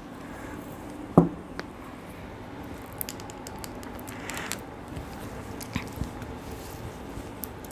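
Small kitchen handling sounds as salt and pepper are added to a marinade: scattered light clicks and a brief rustle, with one sharper knock about a second in.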